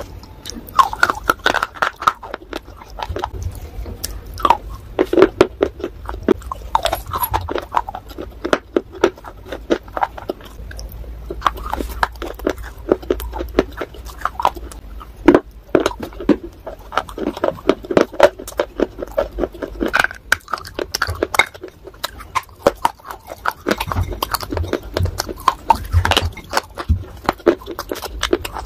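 A person biting and chewing crunchy clay and shale pieces wet with clay slurry, with many irregular crisp crunches.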